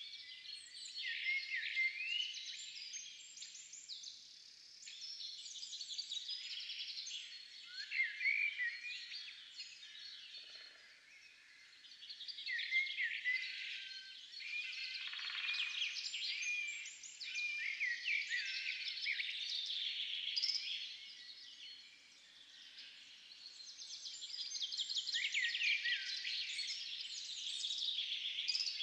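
Many small songbirds chirping and singing at once, a dense overlapping chorus of quick high chirps and short rising notes that swells and fades in waves.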